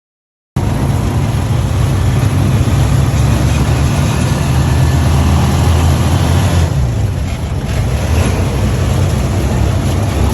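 A vehicle's engine running steadily under loud rushing noise, as heard aboard while it moves. It starts abruptly about half a second in.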